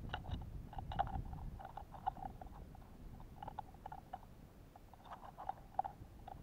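Birds pecking at sunflower seeds and suet in a feeder close to the microphone: irregular light tapping and cracking, a few taps a second with no steady rhythm.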